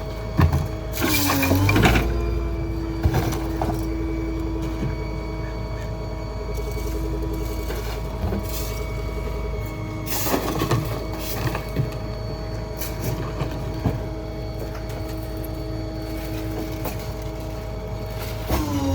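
Small rear-load garbage truck's engine running with a steady mechanical whine under load, the tone dipping and then settling about a second and a half in, with scattered knocks and clanks throughout.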